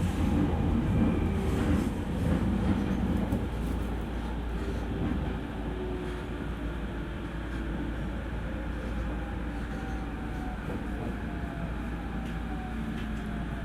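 Cabin running noise of a JR E231 series electric commuter train, with wheel and track rumble that eases after a few seconds. Near the end a faint whine falls slowly in pitch as the train slows.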